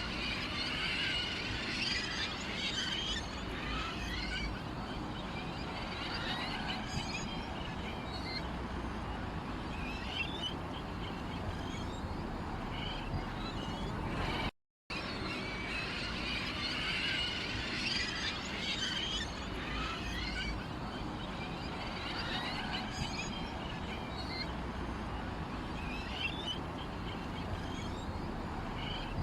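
Small birds chirping and twittering over a steady low background. The recording loops, with a brief dropout about halfway through.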